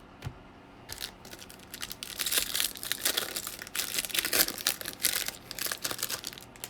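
Wrapper of a 2021 Bowman baseball card pack being torn open and crinkled: a dense run of crinkles and rips that starts about a second in and stops shortly before the end.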